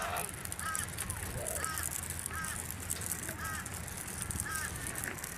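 A short squeaky honk repeating about once a second, evenly spaced, over a steady low rumble.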